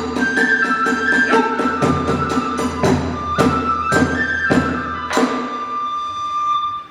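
Kagura hayashi accompaniment: steady drum and cymbal strokes under a bamboo flute melody, ending on a final stroke about five seconds in while the flute holds one last note.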